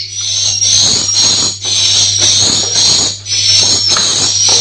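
Swiftlets calling inside a swiftlet house: a dense, high-pitched twittering with short gliding chirps, coming in phrases about a second long with brief dips between them. A steady low hum runs underneath.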